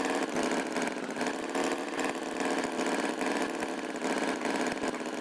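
Cartoon tractor engine sound effect running steadily at idle, a fast even chugging with no change in speed.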